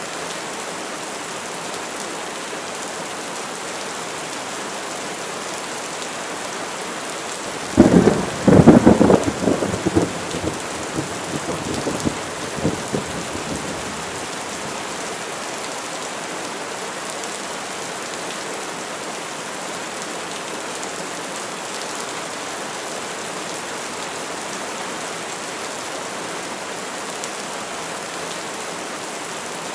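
Steady rain falling, with a clap of thunder about eight seconds in: a sharp crack followed by rolling rumbles that fade over several seconds.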